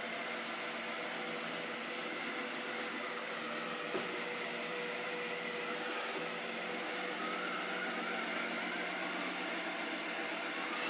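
Robot vacuum cleaner running on its first run, a steady whir with a constant hum, and a single click about four seconds in.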